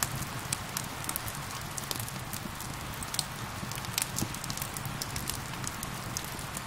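Fireplace fire crackling with frequent sharp pops, over a steady hiss of rain.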